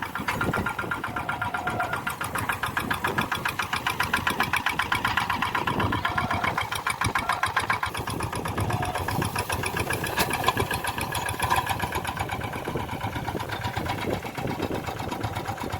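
Tractor engine running steadily, with an even, rapid pulsing beat.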